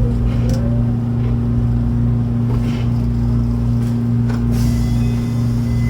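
Hanshin electric train heard from inside the car: a steady low hum with a constant rumble beneath it.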